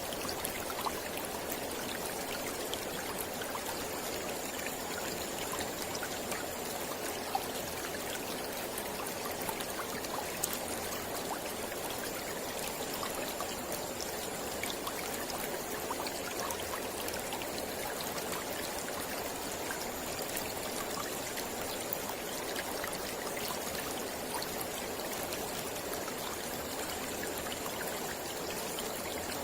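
Mountain river flowing: a steady rush of water over rocks, with small splashes scattered through it.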